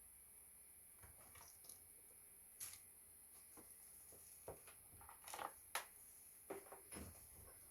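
Faint, irregular clicks and rustles of laptop parts and small tools being handled, a dozen or so short taps and scrapes spread unevenly.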